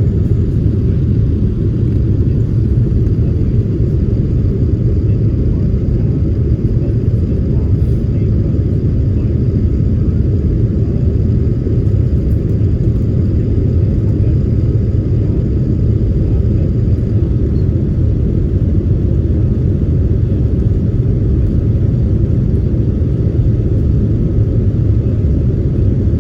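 Airliner cabin noise: a steady low rumble of jet engines and airflow heard from inside the passenger cabin, with a faint thin whine that stops about two-thirds of the way through.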